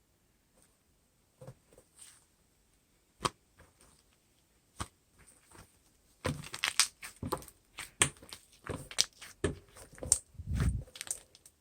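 Scattered sharp clicks, then a dense run of crackling, crunching clicks and knocks from about six seconds in.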